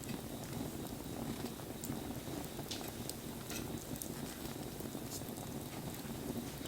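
Wood fire burning in the rain: scattered sharp crackles and pops from the burning wood over a steady patter of rain.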